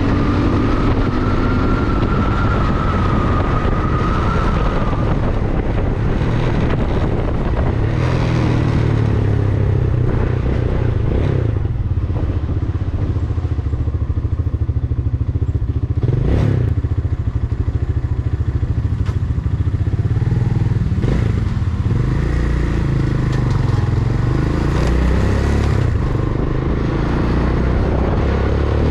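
Ventó Alpina 300 motorcycle engine running under way, its pitch rising and falling with the throttle through the ride. A faint whine wavers over the first few seconds, and a few brief sharp noises cut through, the strongest about 16 seconds in.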